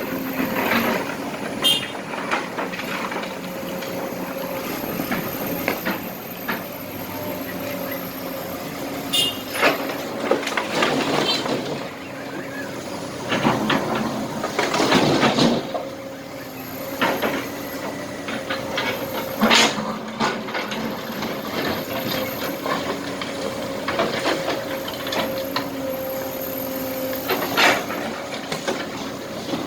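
Kobelco SK200 hydraulic excavator running steadily with a hum, loading broken asphalt and small rocks into a truck, with several loud clattering knocks as material is dumped, the longest burst about halfway through.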